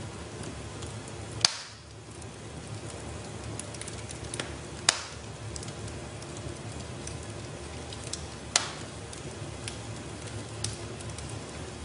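Wood fire in a fireplace crackling over a steady low rush, with light ticks and three sharp pops: about a second and a half in, near five seconds, and past eight seconds.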